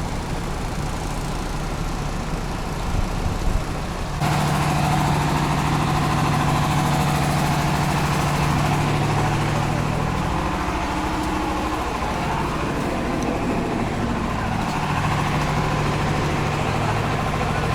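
Cargo riverboat's engine running with a steady drone. About four seconds in it abruptly becomes louder and more humming, after a few knocks.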